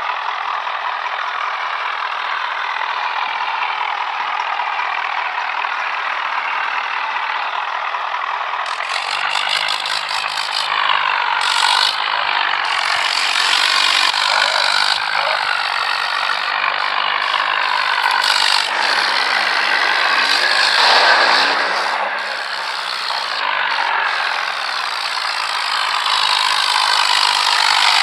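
Tractor engine running hard under heavy load with a metallic rattle, its pitch wavering as the revs rise and fall. It grows louder and busier about a third of the way in.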